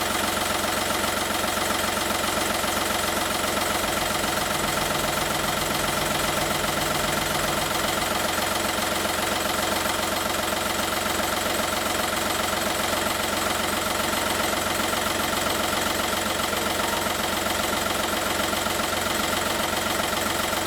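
Skoda Fabia's 1.4 TDI three-cylinder pump-injector turbodiesel (BNV) idling steadily with its diesel clatter, running to warm up after the cylinder-head repair.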